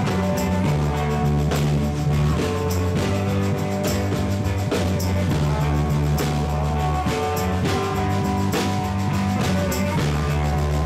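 A rock band playing live: electric guitar and bass over a drum kit keeping a steady beat, with no vocals.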